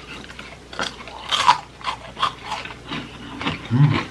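Close-miked chewing of crisp deep-fried potato: a run of irregular crunches from biting and chewing, loudest about a second and a half in, with a brief low murmur-like voice sound near the end.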